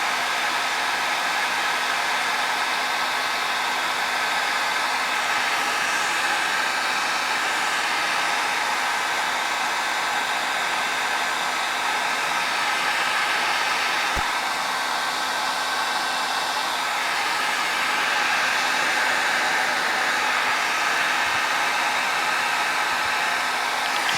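Handheld hair dryer running steadily, blowing air with an even rushing noise, a low hum and a faint whine.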